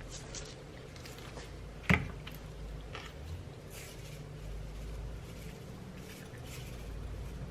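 A single sharp click or knock about two seconds in, over faint handling rustles.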